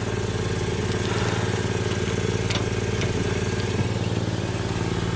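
A motor running steadily with a fast, even pulse, and a few faint clicks.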